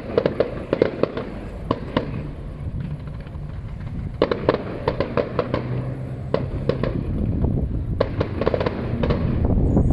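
Fireworks display: clusters of sharp bangs and crackles, over a steady low rumble.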